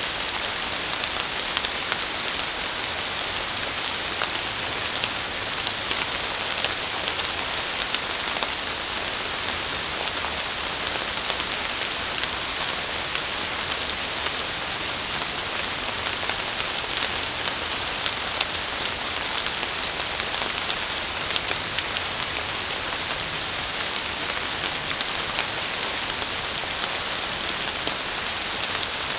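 Steady rain falling on forest foliage: an even hiss of rainfall, dotted with many small ticks of single drops striking leaves.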